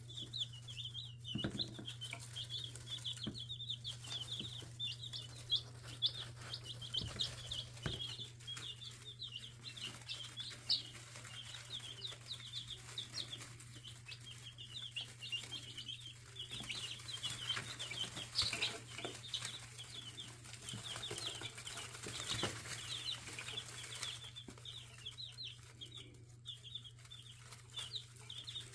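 A brood of chicks peeping continuously, many short high chirps overlapping, over a steady low hum.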